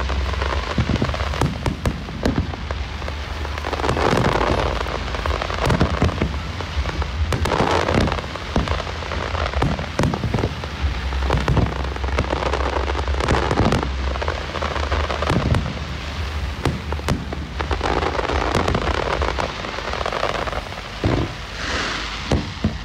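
Fireworks display: a dense run of crackling and pops, with a louder bang every second or two.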